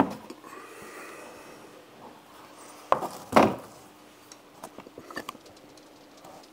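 Knocks and clicks as an over-the-range microwave is lowered on a bottle jack: a sharp click about three seconds in, then a louder knock, and a few light ticks after.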